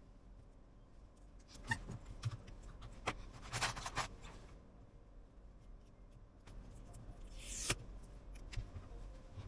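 Small repair tools clicking and scraping against an iPhone 11 during battery replacement: scattered sharp clicks, a scraping stretch about three and a half seconds in, and a short hiss about two seconds before the end.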